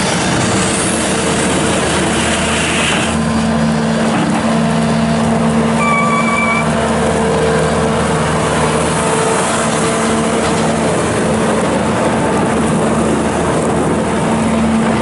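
Bobcat S650 skid steer loader's Kubota V3307 four-cylinder diesel running under load as the machine is worked, its engine note shifting in pitch and strength. A short beep sounds about six seconds in.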